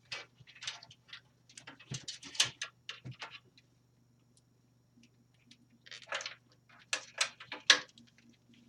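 Hands rummaging through cables and plastic connectors in an open computer case: irregular clicks and rattles, a short pause, then another cluster of sharper clicks near the end.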